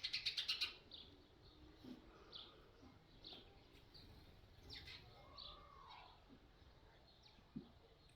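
Birds chirping, faint: a quick rattling trill at the start, then scattered short high chirps.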